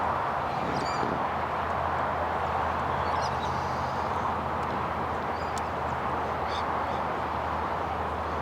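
Steady distant jet engine noise across the airfield, with a few short, high bird chirps over it.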